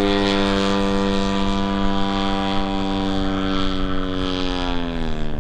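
A DA-100 twin-cylinder two-stroke gas engine on a large RC Super Decathlon plane runs steadily in flight, turning a big propeller. Its pitch drops near the end.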